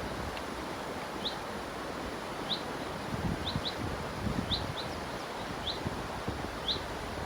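River water running steadily, with a small bird giving short, high chirps about once a second.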